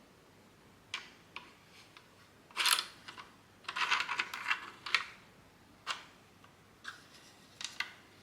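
3D-printed plastic parts being handled and fitted together: sharp single clicks about a second apart, with a denser run of scraping and rattling clicks in the middle.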